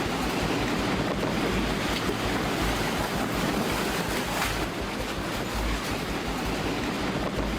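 Tornado-force wind buffeting the microphone: a steady, unbroken rush of noise with heavy low rumble.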